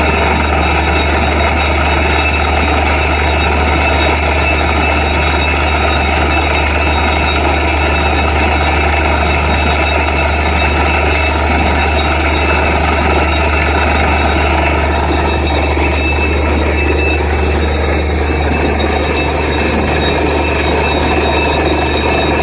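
Borewell drilling rig's engine running steadily under load, a loud, constant low hum with a mechanical clatter on top; the higher part of the sound shifts slightly about two-thirds of the way through.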